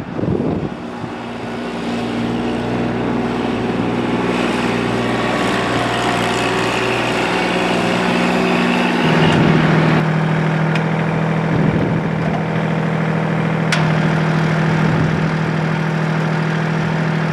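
Three-cylinder Kubota diesel engine of a 2020 Kubota L2501 compact tractor running steadily, its engine note shifting about nine seconds in. A sharp click comes about fourteen seconds in.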